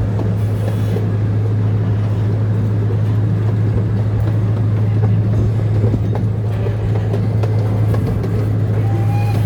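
Zoo train running steadily, heard from aboard the cars: a constant low engine hum over a rolling rumble.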